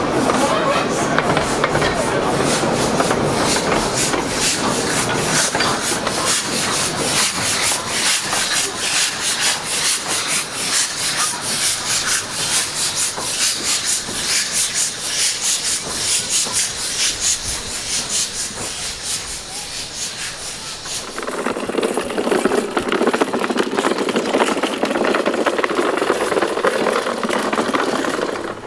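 Narrow-gauge steam train running, with a quick, even beat and hiss. About twenty seconds in the beat stops and a duller, steadier noise takes over.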